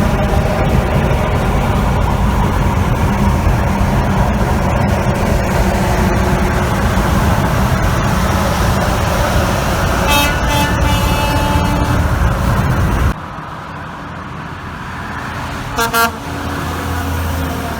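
Semi-trucks passing close on a highway with heavy road and engine noise, which stops abruptly. Then two short truck horn toots sound in quick succession near the end, over lighter traffic.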